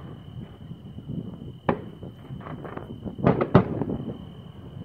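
Distant fireworks popping and banging: one sharp bang about a second and a half in, then a quick cluster of bangs a little past three seconds, with scattered smaller pops in between.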